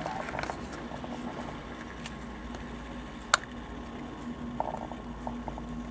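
A steady low hum over a faint hiss, with one sharp click just past the middle and a faint brief crackle a little later.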